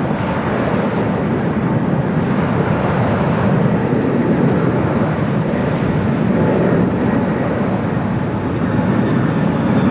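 Steady roar of a jet airliner's engines, with a faint high whine coming in near the end.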